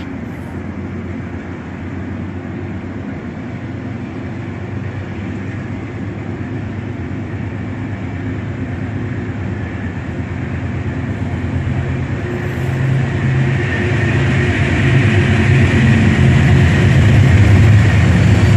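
Diesel locomotive engine running steadily with a low drone, growing louder over the last several seconds as a hiss builds up over it.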